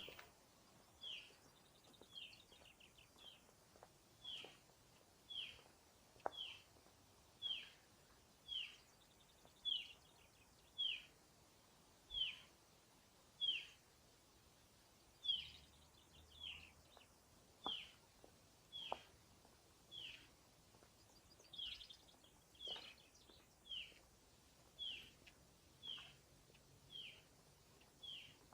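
A small bird repeating one short, high call that drops slightly in pitch, about once a second and very evenly, over an otherwise quiet background with a few faint clicks.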